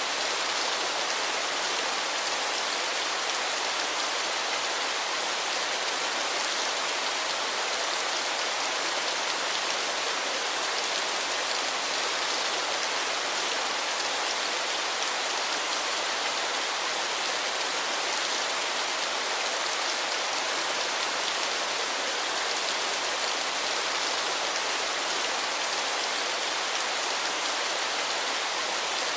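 Waterfall rushing steadily, an even hiss of falling water with no changes.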